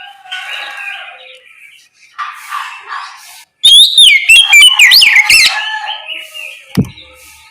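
Oriental magpie-robin (kacer) singing. A softer, jumbled run of notes gives way about halfway to a loud burst of rapid sweeping whistles and chattering phrases that then eases off, with a short low thud near the end.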